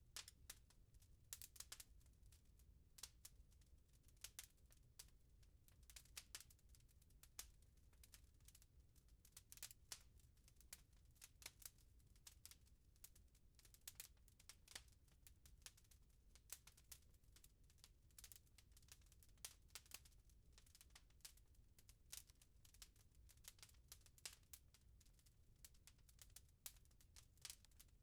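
Wood fire crackling in a fireplace, faint: frequent irregular sharp pops and snaps over a low steady rumble.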